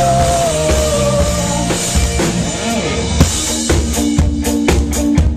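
Pop-rock band playing live and loud between vocal lines. A held note trails off in the first second or two, then the drum kit drives on with sharp snare and kick drum hits over bass and guitar.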